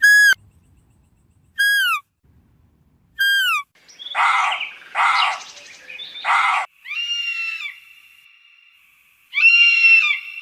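A sequence of animal calls: three short falling whistled calls about a second and a half apart, then three harsher calls in quick succession, then two longer calls over a steady high tone.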